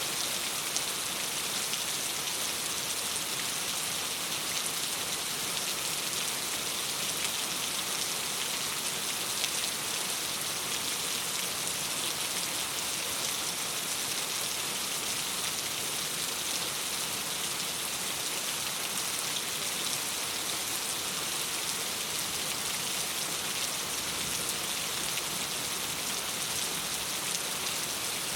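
Steady rain on a window glass: an even hiss of drops that doesn't change.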